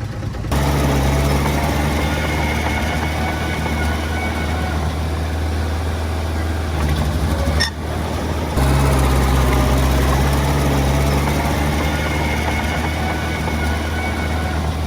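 Diesel engine of heavy earthmoving equipment running steadily with a low drone. The sound starts abruptly about half a second in, dips briefly past the middle, and jumps back a little louder soon after.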